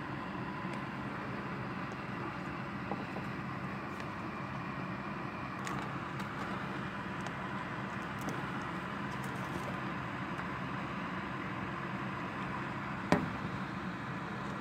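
Steady rain falling, a continuous even hiss with a few faint ticks. Near the end, a single sharp knock stands out above the rain.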